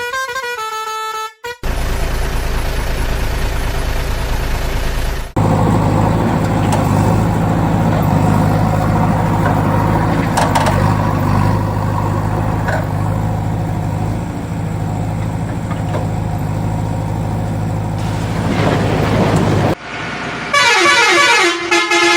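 A vehicle engine runs with a steady hum for most of the stretch. A musical horn tune plays briefly near the start and again near the end.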